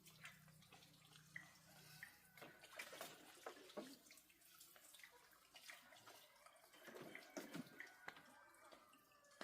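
Faint, irregular water drips with small clicks, scattered unevenly, at near-silence level.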